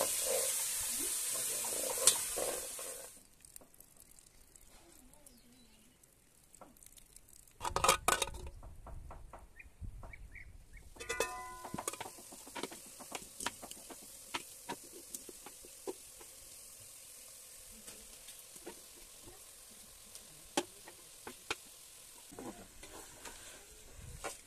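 Chopped tomatoes sizzling in a frying pan as a spatula stirs them, for the first three seconds. After that it is quieter: a few loud knocks and clatter about eight seconds in, then a metal spatula scraping and tapping against a pot of cooked greens over a faint sizzle.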